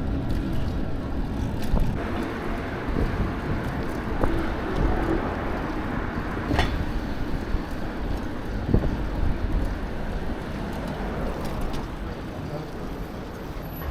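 Street traffic noise with a heavy low rumble of wind on the microphone, heard while riding a bicycle, with a couple of sharp clicks.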